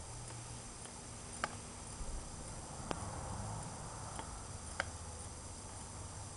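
Hand bicycle pump being worked to pressurise a compressed-air rocket launcher: a sharp click roughly every one and a half seconds, with a soft rush of air about three seconds in.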